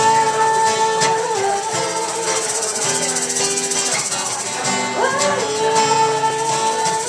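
A small band playing live music: a long held melody note that slides up into pitch, about five seconds in, over steady accompaniment and a continuous high rattle.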